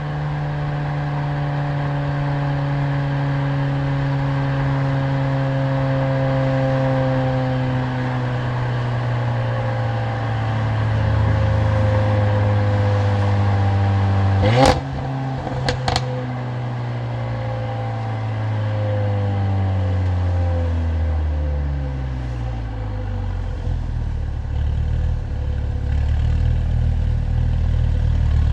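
Mercedes-AMG CLA45's turbocharged four-cylinder engine and exhaust on a drive: the engine note sinks slowly, rises sharply for a moment about halfway with two sharp cracks, then winds down as the car slows and settles low near the end.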